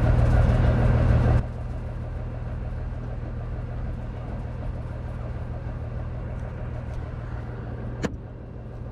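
Engine running steadily with a low hum; about a second and a half in it drops suddenly to a quieter level, and a single sharp click comes near the end.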